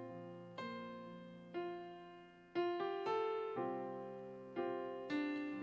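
Piano playing slow, gentle chords as the introduction to a worship song, a new chord struck about once a second and left to fade.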